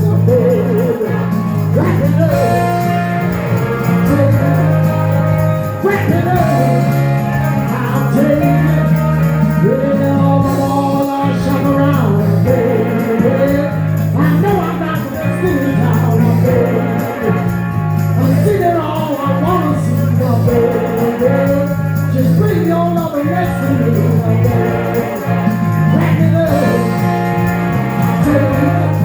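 Live band playing a song, with a steady repeating bass line under a melody line.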